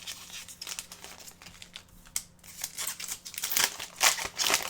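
Crinkling and rustling of trading-card packs and cards being handled, getting busier and louder in the last second.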